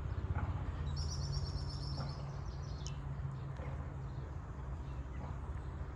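A small bird singing a quick trill of high chirps, starting about a second in and ending with a short falling note, over a steady low outdoor rumble.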